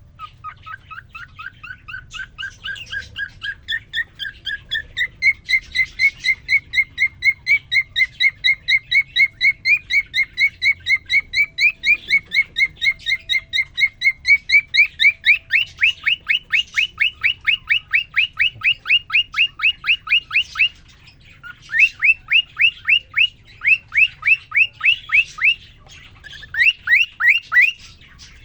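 Male cockatiel singing a long run of rapid repeated chirps, about three or four a second, the pitch creeping slowly upward, then changing about halfway through to quick upward-sweeping notes, broken by short pauses near the end. He sings right after a female is put in with him.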